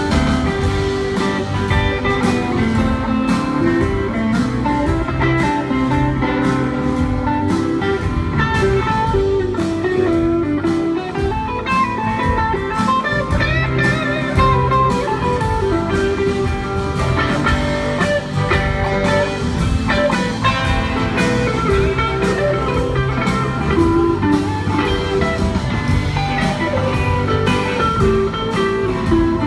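Live blues-rock band playing an instrumental break: a guitar carries moving melodic lines over bass and drums, with no singing.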